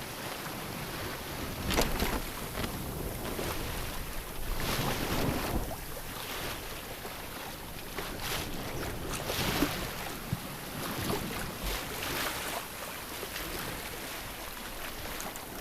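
Sea water washing and splashing against a sailboat's hull, with wind buffeting the microphone; a few louder surges and sharper splashes stand out, one about two seconds in and another near ten seconds.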